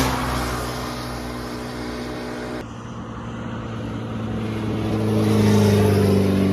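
A sport motorcycle engine running at a steady pitch. It changes abruptly about two and a half seconds in, then grows louder over the last couple of seconds.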